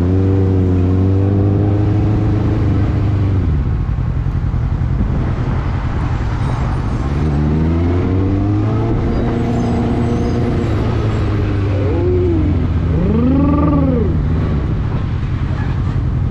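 Suzuki GSX650 street bike's engine under way over wind rush, pulling up in pitch and holding twice as it accelerates, then several short rises and falls in engine pitch near the end.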